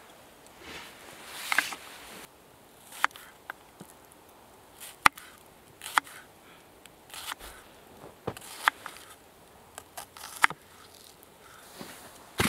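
Kitchen knife slicing onions and bell peppers on a cutting board: irregular sharp taps of the blade striking the board, with short pauses between cuts.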